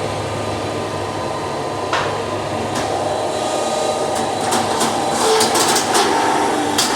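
Gas forge running steadily with a low hum, with a few short metallic knocks and clinks about two seconds in, around the middle and near the end.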